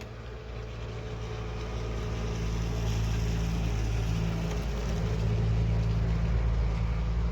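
A motor vehicle running steadily: a low engine hum under a rushing hiss that builds over the first few seconds and then holds.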